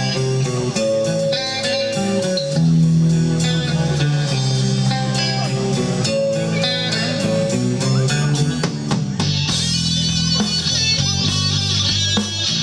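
Live rock band playing an instrumental passage: electric guitar with bass and drum kit keeping a steady beat, cymbals washing in loudly for the last few seconds.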